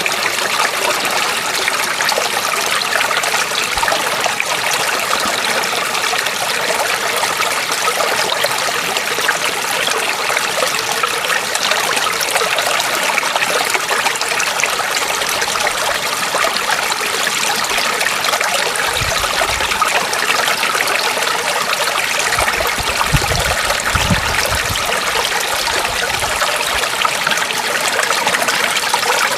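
Stream water running and trickling steadily over stones. A few brief low rumbles come in at about two-thirds of the way through.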